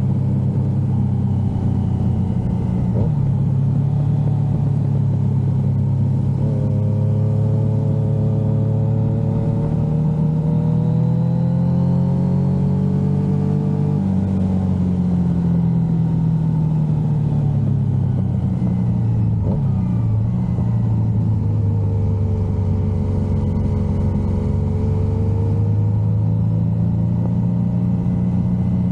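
Yamaha XSR900's inline three-cylinder engine pulling under way on the road: the engine note climbs steadily, drops away, then climbs and eases again, with a few short breaks in the note.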